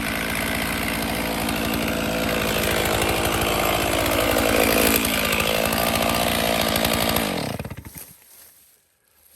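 Stihl two-stroke chainsaw running at full throttle, getting louder in the middle, then shut off about seven seconds in, its engine winding down to a stop.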